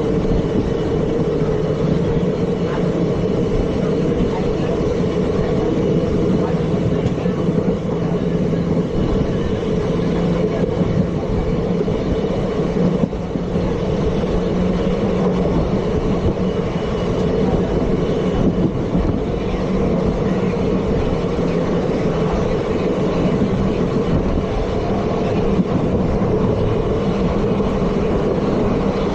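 ICF passenger coach running along the track, a steady rumble of wheels on rails with a low hum.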